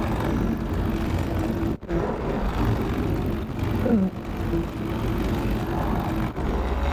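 Paramotor in flight: the motor and propeller run steadily with a constant hum, over wind rush, with a momentary dropout about two seconds in.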